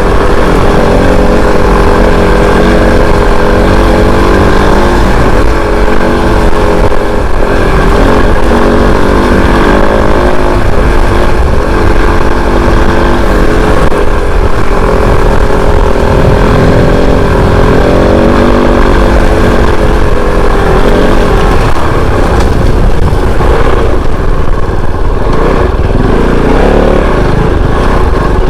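Kove 450 Rally single-cylinder motorcycle engine running under way, its pitch rising and falling gently as the throttle changes, over a steady low rumble.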